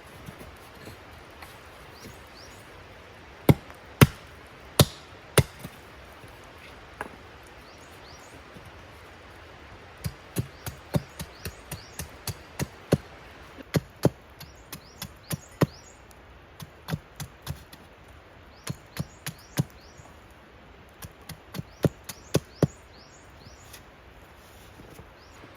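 Wood being chopped with an axe or hatchet: four single blows about three seconds in, then, from about ten seconds in, runs of sharp blows about two a second broken by short pauses.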